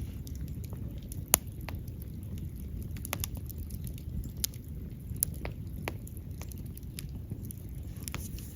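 Wood fire burning with a steady low roar and irregular sharp crackles and pops, one louder pop about a second in.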